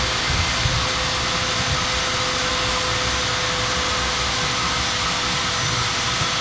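Steady, unbroken drone of a motor moving air, with a faint steady hum through it.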